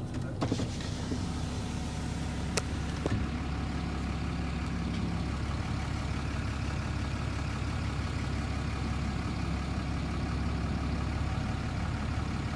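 Car engine idling steadily, with a few sharp clicks in the first three seconds.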